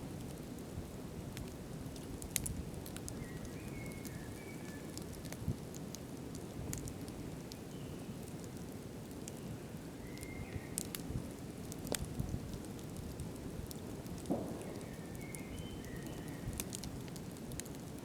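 Wood campfire burning, with a steady low rustle of flames and frequent irregular sharp crackles and pops.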